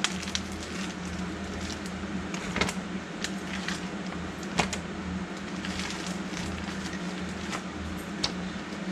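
Steady low hum with a few scattered light clicks and knocks, a sharper one a couple of seconds in, another near the middle and one near the end.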